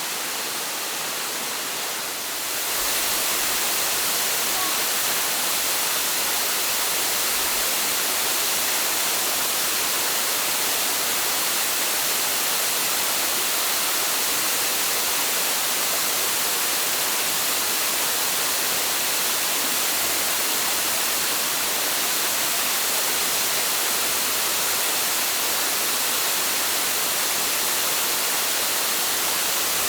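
Steady rushing of a waterfall: a dense, even roar of falling water with no rhythm. It gets a little louder and brighter about two and a half seconds in.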